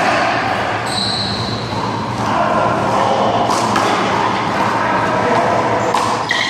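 One-wall handball play: a small rubber ball smacked by hand and hitting the wall and ground, with a couple of sharp smacks about three and a half and six seconds in, over a steady background of noise and faint voices.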